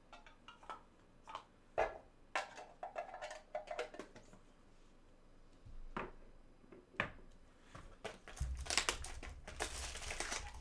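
Trading cards being handled: scattered clicks and taps, then about two seconds of denser rustling and sliding near the end.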